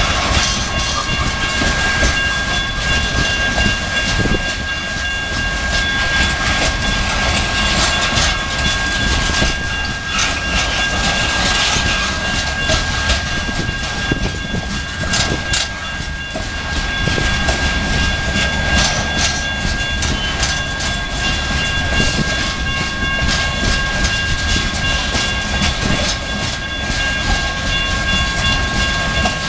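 Coal train's hopper cars rolling past, wheels clicking over the rail joints against a steady rumble, with a steady high-pitched squeal held over it throughout.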